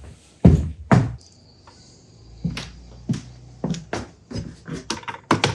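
Hard objects being handled on a workbench: two loud knocks, then a string of lighter clicks and taps, with a faint high steady tone for a moment between them.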